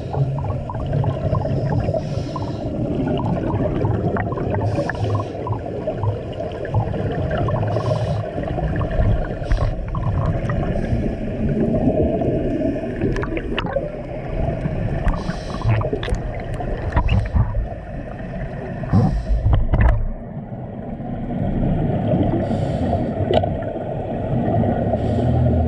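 Underwater sound of scuba divers breathing through their regulators: exhaled bubbles gurgle out in bursts every few seconds over a constant low rumble, with scattered small clicks.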